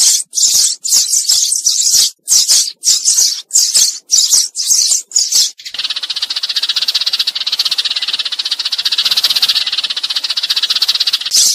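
Sparrows calling: quick, repeated high chirps for the first half, then about halfway through a continuous fast chattering trill. It is a decoy call meant to draw a flock of sparrows in.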